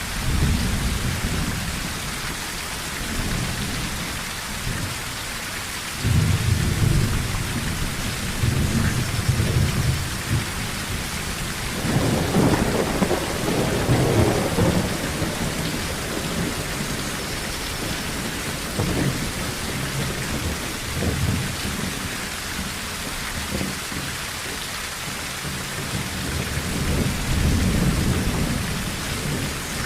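Rain falling steadily on a tin roof, with repeated rolls of thunder rumbling underneath. The biggest roll comes about twelve to fifteen seconds in.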